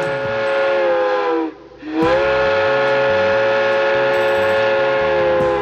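Two long blasts of a multi-note chime whistle, several notes sounding together, each sagging in pitch as it dies away.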